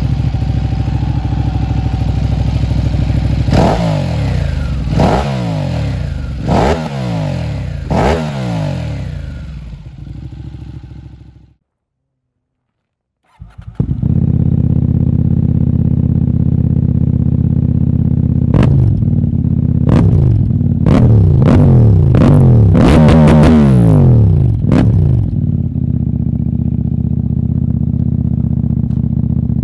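Two-cylinder sport motorcycle engines idling and being revved with quick throttle blips, the pitch dropping back to idle after each. The first engine fades out about a third of the way in, and after a brief silence a second one idles and then gets a rapid series of blips.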